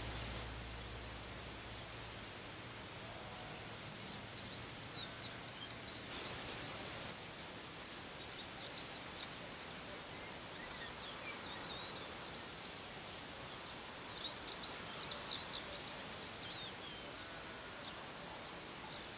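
Birds calling in quick high chirps over a steady hiss: scattered notes, then two short rapid bouts, the louder one near the end.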